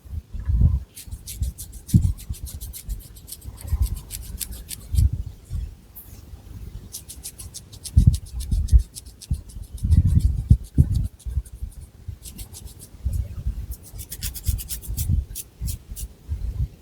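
Long fingernails scratching the scalp through thick long hair, in quick runs of short, crisp strokes, with dull low rubs of hair and hands in between.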